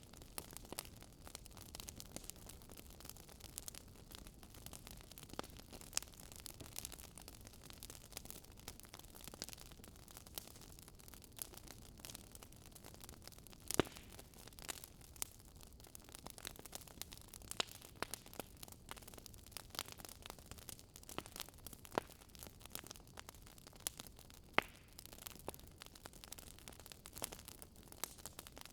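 Wood fire crackling: a faint bed of hiss with frequent irregular sharp pops and snaps, a few louder pops standing out.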